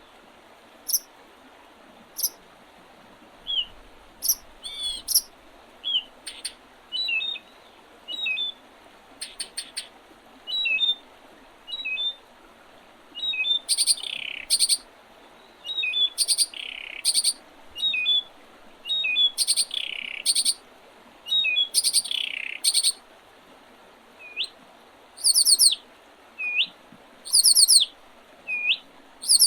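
Several small birds calling over faint steady background noise: sharp chips and short notes at first, a run of down-slurred calls in the middle, then short up-slurred whistled notes repeated about every second and a half near the end.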